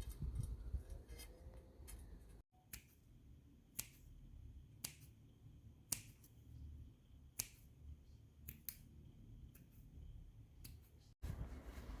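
A series of sharp, separate clicks, roughly one a second and irregularly spaced, over a low background rumble.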